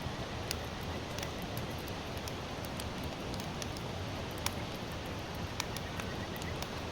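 Wood fire of sawtooth oak (kunugi) logs burning: a steady hiss with scattered sharp crackles and pops, one louder pop about four and a half seconds in.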